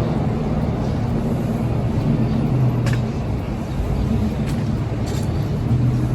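Steady low rumble of vehicle engines and traffic, with a hum that rises and falls slightly and a couple of faint short high sounds.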